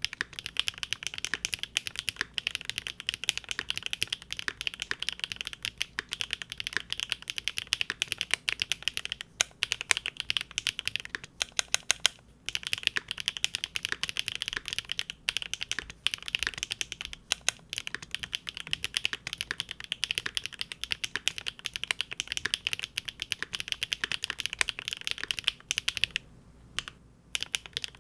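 Fast, continuous typing on a Linworks Big Whale custom mechanical keyboard with GEON Raw Zero switches on a polycarbonate plate, a dense stream of key clicks. The typing pauses briefly about twelve seconds in and again near the end.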